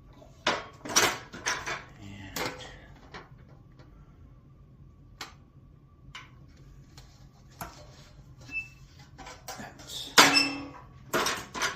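Sheet metal being bent up and handled: irregular clanks and rattles of thin metal, some ringing briefly. The loudest clatter comes near the end.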